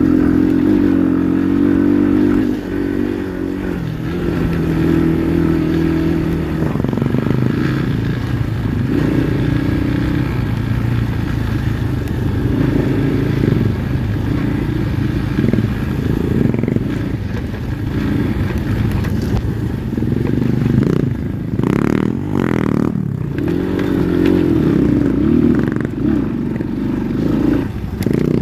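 Pit bike's single-cylinder four-stroke engine running as it is ridden, its revs rising and falling repeatedly, with a few knocks a little over twenty seconds in.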